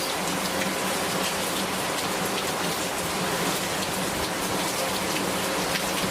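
Steady rain falling, with many individual drops striking a surface.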